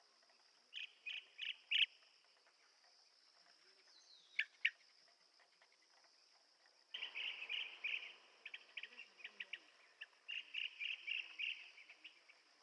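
Blue-tailed bee-eater calling in short notes: four about a second in, two around four and a half seconds, then a longer run of rapid calls from about seven seconds to near the end. A steady high insect hum runs underneath.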